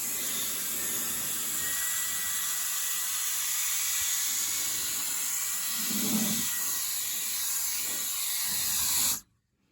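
Air blower hissing steadily as it blows dust, debris and spider webs off a furnace, with a brief lower swell about six seconds in, then shut off suddenly near the end.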